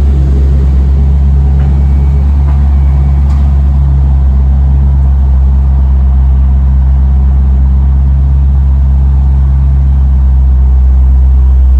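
1992 Ford Mustang GT's 5.0-litre V8, breathing through a cold air intake, an off-road H-pipe and a Magnaflow cat-back exhaust, idling steadily with a deep, even rumble in a parking garage.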